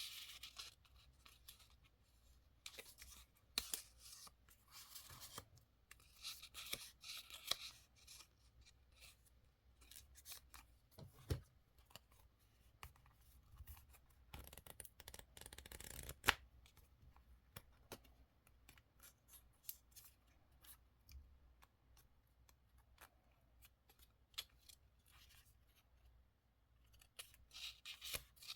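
Scissors cutting paper in several runs of crisp snips, with paper handling and a few sharp taps in between; faint.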